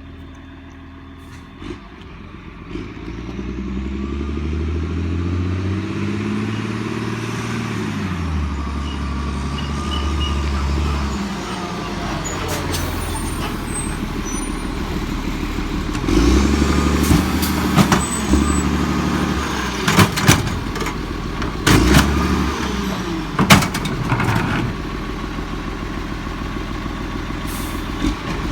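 Garbage truck's diesel engine coming closer and rising in pitch, then easing off. About halfway through it runs louder and steady while collecting, with a series of sharp bangs.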